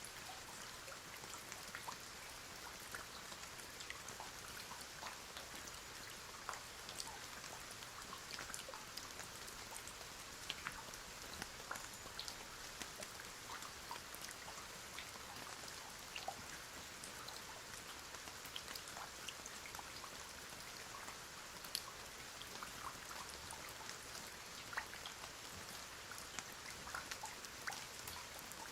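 Steady rain: an even soft hiss with scattered drop ticks.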